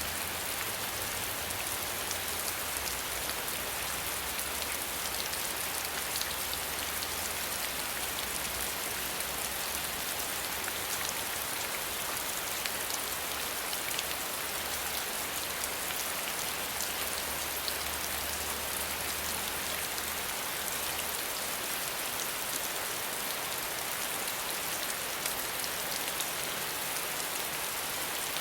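Steady rain falling: an even hiss with many small raindrop ticks.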